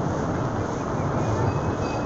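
Old steam train running along its track, heard from on board as a steady rumble. A faint thin high tone comes in near the end.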